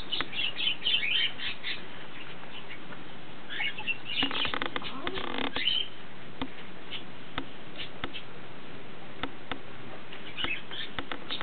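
Small birds chirping in quick high bursts, in the first two seconds and again from about four to six seconds in, with scattered light ticks between.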